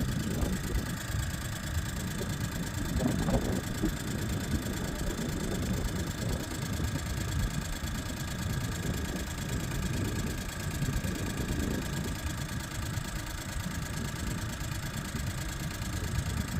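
Dairy barn machinery running steadily, a continuous hum with several steady tones: the barn's ventilation fans and equipment.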